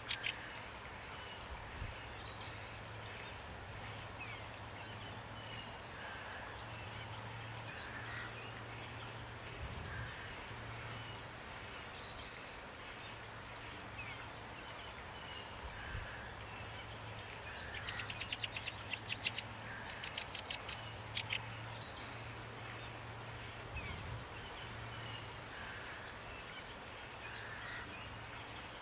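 Steady rainfall hiss with small songbirds chirping over it: repeated quick falling chirp phrases and, a little past the middle, a rapid trill. A low hum comes and goes underneath.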